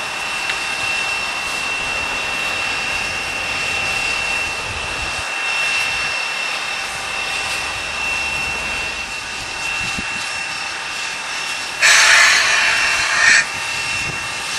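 Ex-Canadian National 0-6-0 steam locomotive hissing steadily with a thin, steady high whine over the hiss and no exhaust beat. About twelve seconds in a loud hissing rush lasts about a second and a half, then drops back.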